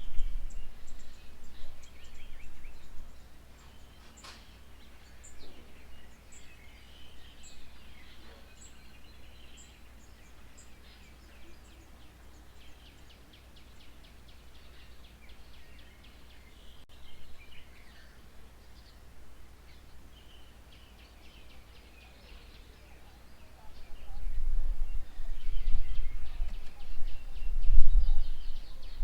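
Small birds chirping and calling at a garden bird table, with a run of regular high ticks in the first several seconds. A low rumbling noise comes in the first three seconds and again over the last five.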